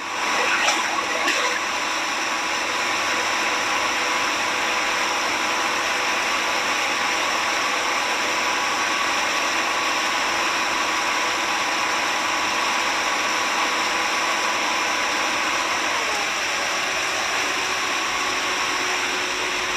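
Steady machine noise: a motor running with a constant hum, unchanging throughout.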